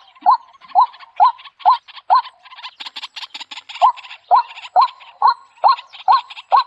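A bird calling over and over, short hooked notes about two a second, with a burst of quicker chattering calls in the middle.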